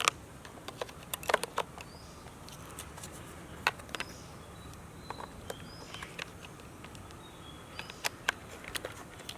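Irregular small plastic clicks and knocks as AA-size batteries are fitted into a toy ice cream van's battery compartment and its cover is handled.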